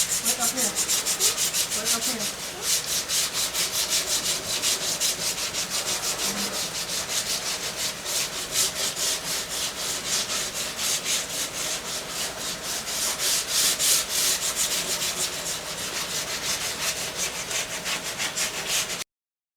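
Fast, even rubbing strokes, several a second, like scrubbing or sanding; they cut off abruptly near the end.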